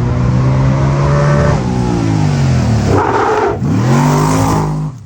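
A vehicle engine running hard at high revs: its pitch sags, dips sharply about three and a half seconds in and climbs back up, then the sound cuts off suddenly.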